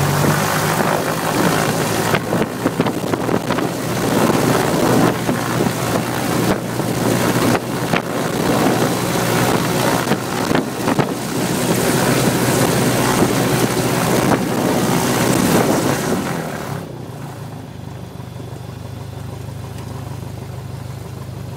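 Single-engine piston airplane engine and propeller run up to high power for the pre-takeoff run-up check, running loud and steady, then throttled back to a quieter idle about three-quarters of the way through.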